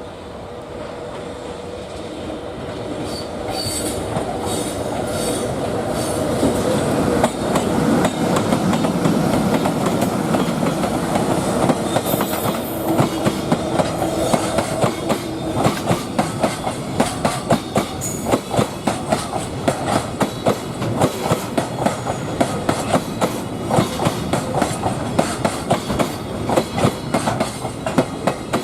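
Freight train of container wagons passing, hauled by an EH200 electric locomotive. Its sound builds over the first several seconds, then the wheels clack over the rail joints in a steady rhythm that quickens towards the end as the train gathers speed.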